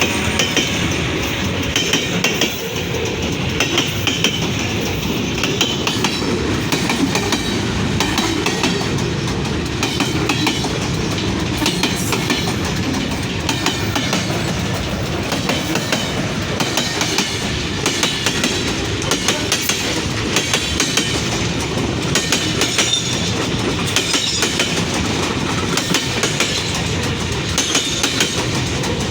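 Container freight train rolling past on the main line, with a steady rattle and a continuous stream of wheel clicks over the rail joints.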